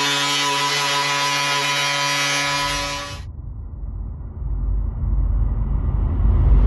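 A steady, high power-tool whine runs and stops about three seconds in. A low vehicle engine rumble then builds, growing steadily louder as if approaching.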